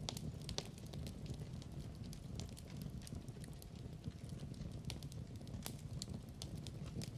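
Wood fire crackling in a fireplace: a steady low rumble of the flames with irregular sharp pops and snaps, a few each second.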